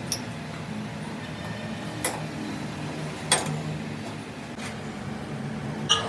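A steady low mechanical hum with four sharp knocks spread irregularly across it, the third the loudest.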